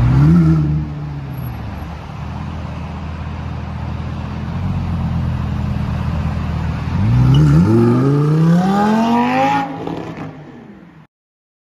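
Supercar engine revving briefly, then running at a steady low drone, then accelerating hard with its pitch climbing for a few seconds before the sound dies away.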